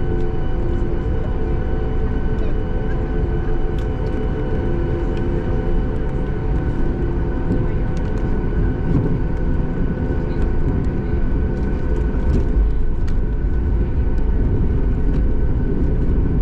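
Cabin noise of a Boeing 737 MAX 8 taxiing: the CFM LEAP-1B jet engines give a steady hum of several fixed tones over a low rumble. It grows slightly louder toward the end, with a few faint ticks.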